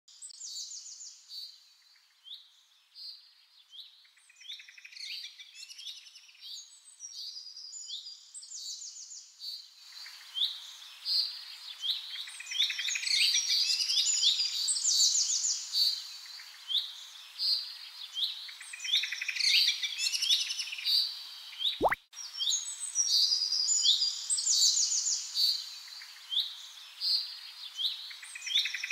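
Small birds chirping and twittering without pause, with many short calls and quick trills. A faint hiss rises about ten seconds in, and there is one sharp click with a brief dropout near the 22-second mark.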